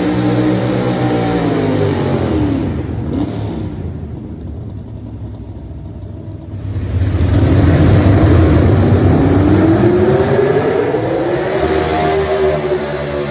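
Small-block V8 engine of a four-wheel-drive pulling truck at high revs. The revs fall off over the first few seconds and the sound drops back, then from about seven seconds it comes back loud with the pitch climbing steadily as the engine revs up again.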